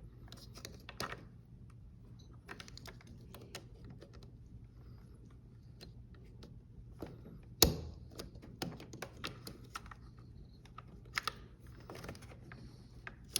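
Scattered light clicks and taps of washing-machine parts being handled and fitted together, with one sharp knock a little under eight seconds in.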